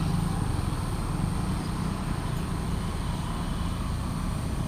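Heavy vehicle engine running steadily in passing road traffic, a low continuous hum under tyre and road noise.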